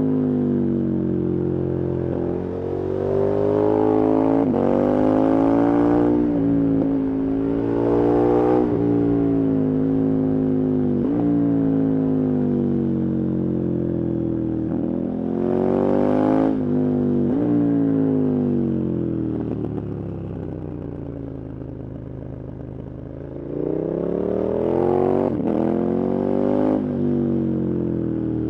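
KTM 1290 Super Adventure's V-twin engine under hard acceleration, the revs climbing and dropping sharply again and again as the rider shifts through the gears. For a few seconds past the middle the engine runs softer at lower revs, then pulls hard again.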